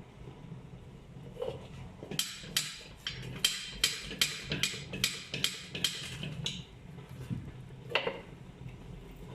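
A run of about a dozen sharp metal knocks, roughly three a second, with a slight ring, then one more knock near the end: hammer blows on an alloy wheel rim being straightened. A steady low hum runs underneath.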